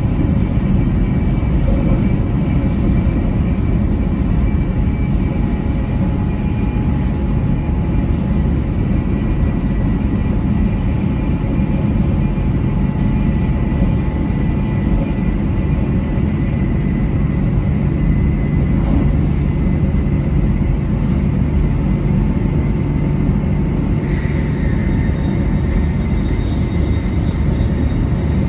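700 series Shinkansen train running at speed: a steady low rumble with faint steady whining tones above it. A slightly brighter hiss joins near the end.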